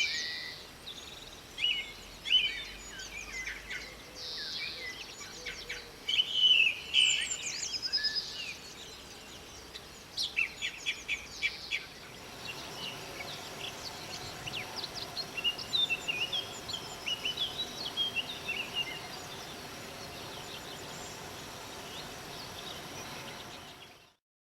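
Birds singing, mainly a common blackbird, in loud, varied song phrases. About halfway a steady low hum comes in under fainter twittering, and the sound fades out just before the end.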